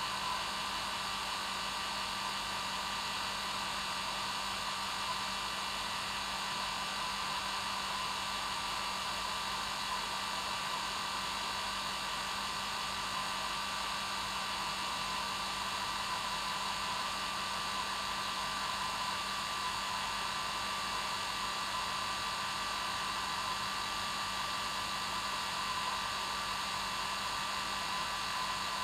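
Hair dryer running steadily on its normal setting, an even whooshing rush with a steady motor hum under it.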